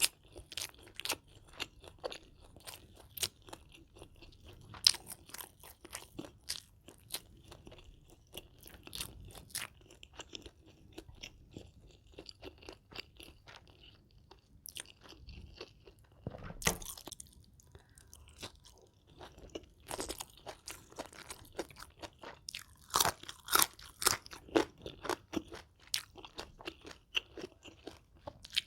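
A person chewing and crunching food close to the microphone: a steady run of sharp, irregular crunches with wet chewing between them, growing louder and denser about two-thirds of the way through.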